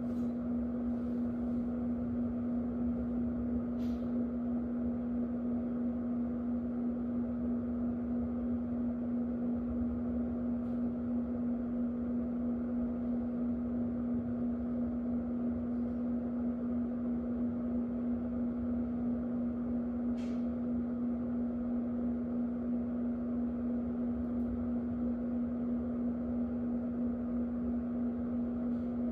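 Electric fan running steadily: an even rush of moving air over a strong, constant motor hum. Two faint ticks come through, one about four seconds in and one about twenty seconds in.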